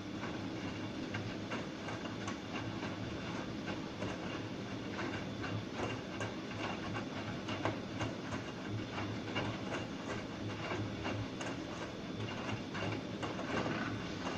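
Bosch Serie 2 WAB282ECO washing machine running, with a steady motor hum and many irregular clicks and knocks as the drum turns.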